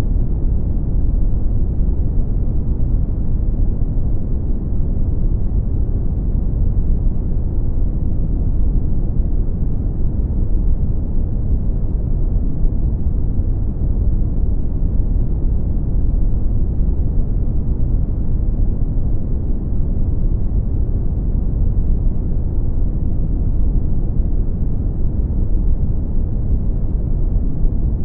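Brown noise: a steady, deep rumbling hiss with most of its energy in the low end and little above the mids.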